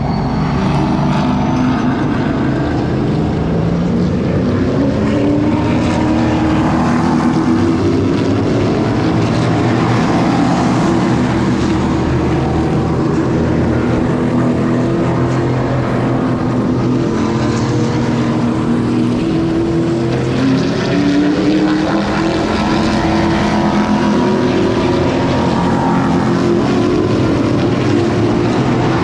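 Race car engines running laps during an oval-track practice session, their pitch repeatedly rising and falling as the cars accelerate down the straights and lift for the turns, with more than one engine heard at once.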